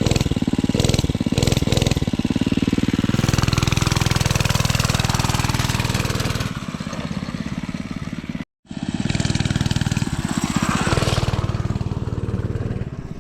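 Small dirt bike engine running and revving up and down as the bike rides along. The sound cuts out for a moment about eight seconds in.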